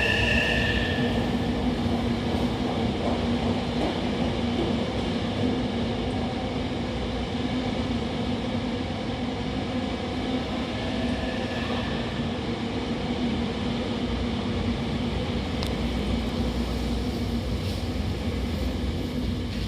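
Hankyu 9000 series electric train pulling away. A high motor whine fades out in the first second or so, leaving a steady rumble of the train running with a low hum.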